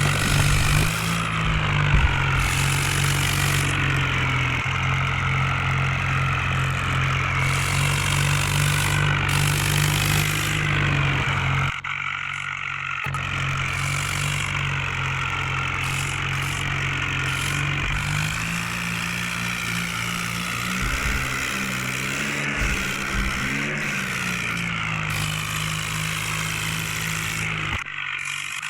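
Tractor engine running steadily, with a wavering higher-pitched sound over it. The engine sound drops away for about a second near the middle, then carries on at a slightly different pitch.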